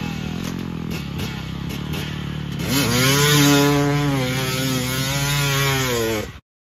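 Dirt bike engine running steadily, then revving up sharply about two and a half seconds in and holding at high revs. The sound cuts off suddenly near the end.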